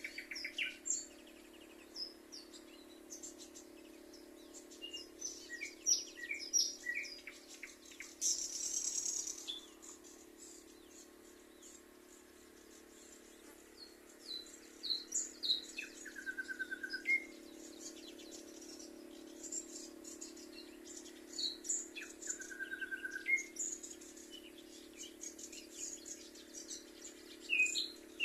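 Several songbirds chirping and singing, short notes and trills overlapping throughout, with a couple of longer held whistles, over a steady low background sound.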